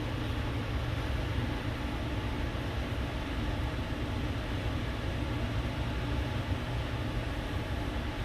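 Steady low hum with an even hiss over it, unchanging throughout, with no distinct strokes or knocks standing out.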